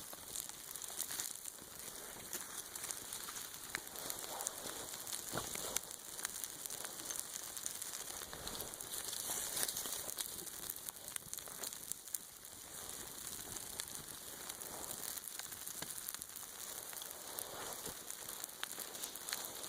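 Freezing rain falling steadily, a dense hiss of fine ticks, with scattered rustling and handling noises.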